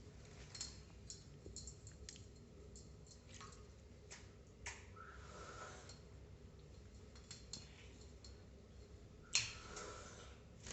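Sparse small clicks and taps, with one sharper click near the end: a ringneck parrot's beak knocking against its water dish as it drinks.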